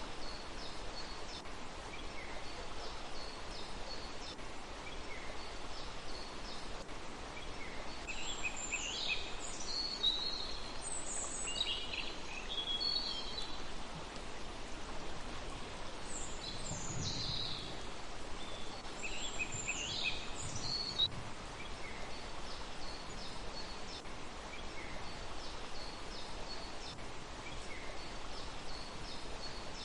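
Small birds chirping and trilling over a steady background hiss, with two livelier bouts of calls, one a third of the way in and one just past the middle.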